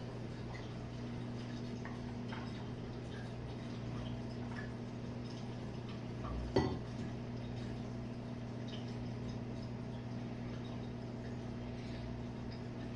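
Jenn-Air dishwasher running a Quick Wash cycle: a steady motor hum under a wash of water, with small clinks of dishes and one sharp knock about six and a half seconds in.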